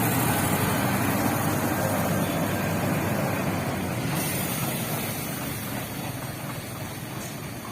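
A heavy vehicle's engine running, growing steadily fainter as it moves off.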